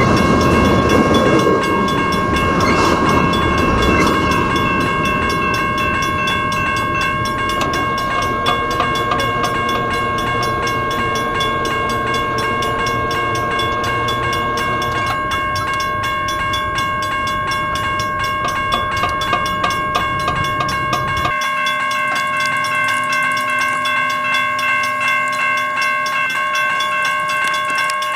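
Freight train rolling past: a steady rumble with rhythmic clacks of wheels over rail joints, and a steady high-pitched squeal throughout. The low rumble drops away sharply about two-thirds of the way through.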